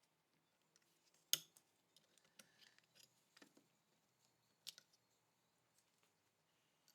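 Light, scattered clicks and taps of small metal parts and hand tools being handled, with two sharper clicks, one about a second in and one near five seconds in.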